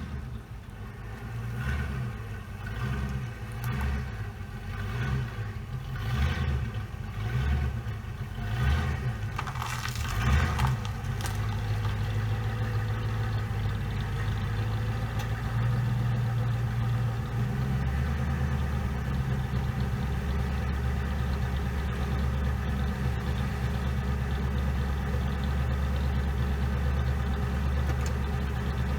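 2007 Ford Crown Victoria's 4.6 L V8 revved in about seven short blips, then idling steadily, the idle dropping to a lower, settled speed about 18 seconds in. The engine has just had a spark plug replaced to cure a misfire.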